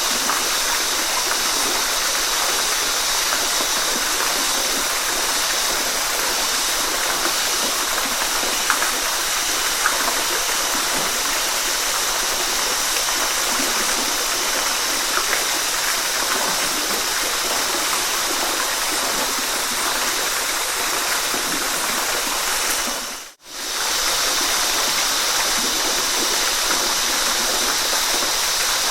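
Waterfall, steady rushing water with an even hiss. About 23 seconds in it briefly fades out and comes back.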